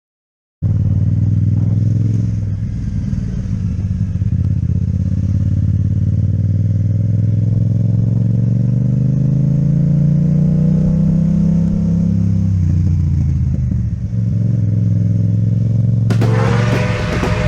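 Yamaha MT-07 parallel-twin engine with an Akrapovic exhaust running under way, starting suddenly. Its pitch rises steadily for several seconds as it accelerates, then drops back about twelve seconds in. Near the end a brighter, different sound with a steady tone cuts in over it.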